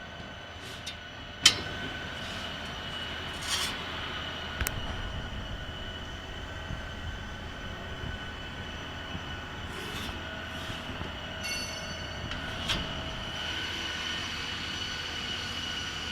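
Mixed CO2 laser cutting machine running while it cuts metal plate: a steady high whine over a low hum, with a few sharp snaps. The loudest snap comes about a second and a half in.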